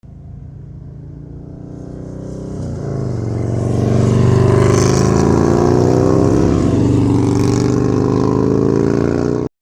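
An engine running and revving, growing louder over the first four seconds and then holding steady with its pitch wavering, before cutting off abruptly near the end.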